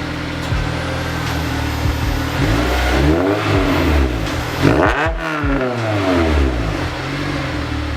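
Honda S2000's F20C four-cylinder engine revving up and down several times through a newly fitted Tanabe axle-back exhaust, with the biggest swing in revs about five seconds in.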